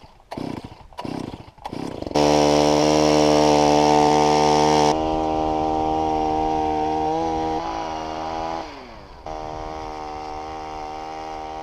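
Gas-powered ice auger's small two-stroke engine drilling holes through lake ice. After a few short bursts of noise, it runs hard at high revs, then drops to a lower pitch that sags briefly as the bit works through the ice, and settles steady again.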